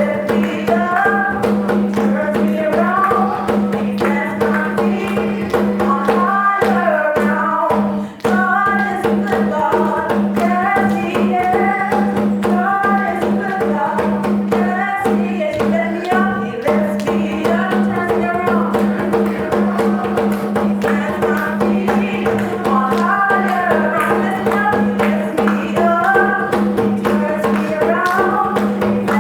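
Gospel worship music: a melody moves over a steady held chord, with percussion keeping a regular beat.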